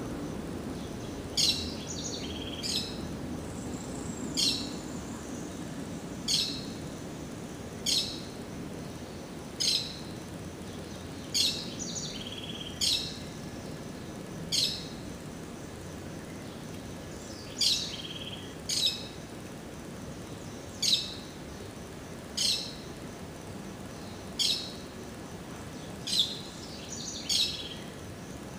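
A bird repeating one short, sharp, high call that sweeps downward, about every one and a half to two seconds, with a few shorter chirps in between, over a steady low background rush.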